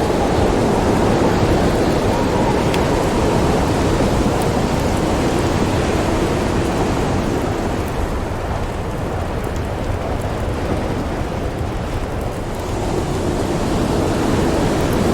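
Steady storm wind with a deep rumble running underneath. It eases off somewhat in the middle and swells again near the end, with a few faint ticks.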